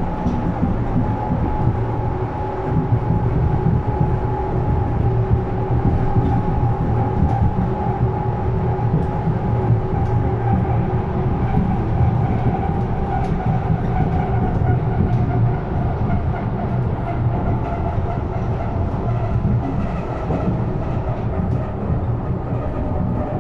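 Berlin S-Bahn class 485 electric train running, heard from inside the car: a steady low rumble of wheels on rail with a motor whine that drifts slightly lower in pitch in the second half.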